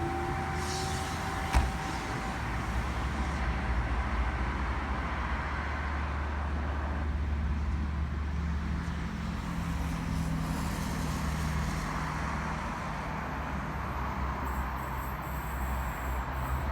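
Steady low rumble and hum of a V-set electric intercity train at the platform, with a single sharp knock about one and a half seconds in.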